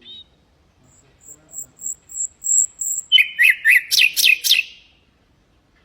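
Common nightingale singing one phrase: a string of thin, very high piping notes that grow louder, then a fast, loud run of down-slurred notes with sharp clicks, ending a little before 5 s.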